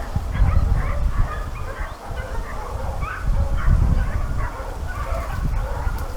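Several hunting dogs barking and yelping over and over, their cries overlapping, as on a boar drive in the reeds, over a steady low rumble.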